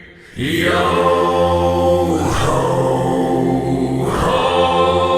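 Background music: slow, chant-like a cappella singing by low voices, holding long notes, with a new phrase starting about every two seconds after a brief pause at the start.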